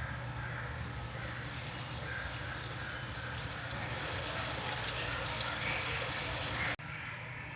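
Water running and trickling in an exhibit tank, over a low steady hum. Two short, high squeaky tones sound about one and four seconds in, and the sound drops suddenly near the end.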